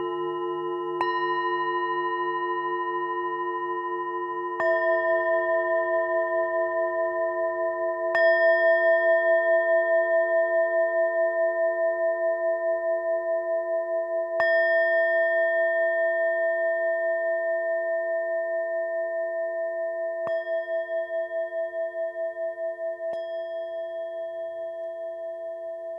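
Tibetan singing bowls of several pitches struck one after another, about six strikes a few seconds apart. Each strike rings on and overlaps the others with a slow pulsing wobble; the loudest comes about eight seconds in.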